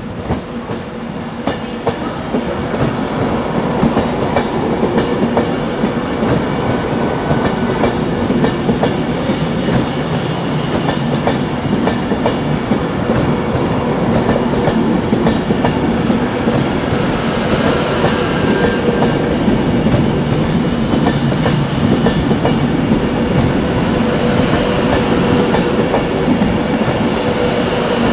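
Class 390 Pendolino electric train running slowly past at close range, its wheels clicking over rail joints and pointwork over a steady low hum. It grows louder over the first few seconds, then holds steady.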